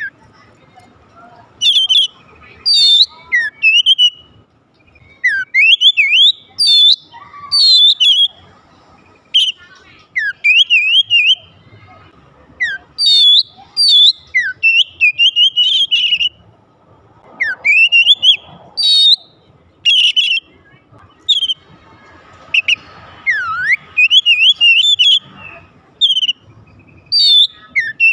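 Oriental magpie-robin (kacer) singing: loud, varied phrases of clear whistled notes that sweep quickly up and down, delivered in short bursts with brief pauses between them.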